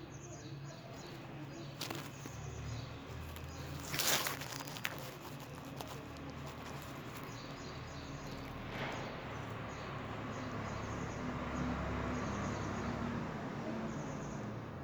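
Outdoor natural ambience: short high chirps repeating over a steady hiss, with a brief rustling burst about four seconds in.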